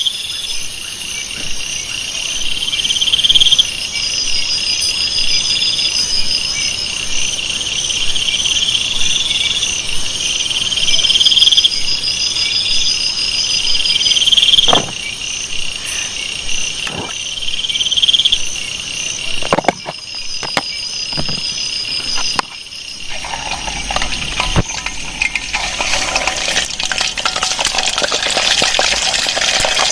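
Forest insects calling: repeated rising buzzy calls and pulsed trills over a steady high drone, with a few sharp clicks in the middle. About three-quarters of the way through, a broad hiss sets in and grows, covering the calls.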